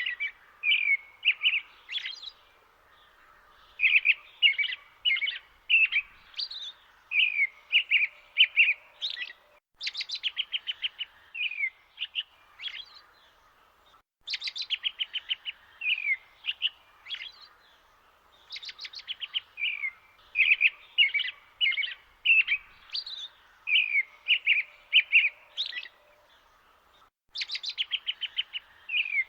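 Songbirds singing, phrase after phrase with short pauses: quick rattling trills of rapid repeated notes alternating with short slurred whistled notes.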